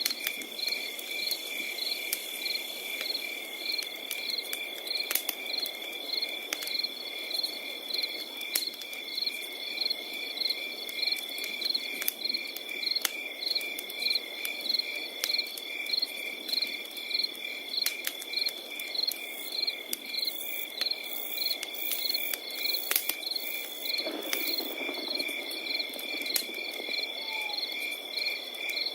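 Crickets calling without pause: one steady high trill under a rhythmic chirping of about two chirps a second. Beneath them a crackling fire gives scattered sharp pops over a soft low hiss.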